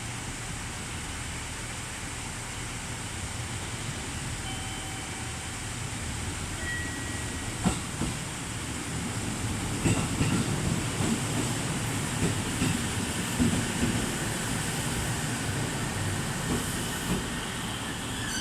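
JR Central 313 series electric train running into the platform, growing gradually louder. From about ten seconds in its wheels knock over the rail joints in a run of clacks.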